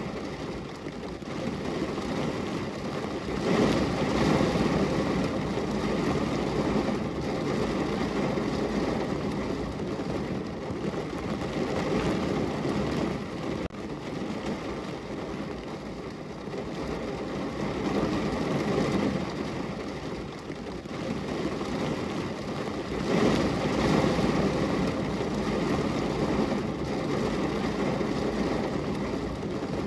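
Steady rain falling on a window, an even rushing hiss with a low rumble underneath. The rumble swells twice, a few seconds in and again a little past the middle.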